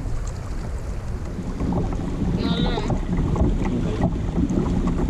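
Wind buffeting the microphone over water, a steady low rumble on an open kayak. About two and a half seconds in, a brief high, wavering call sounds for about half a second.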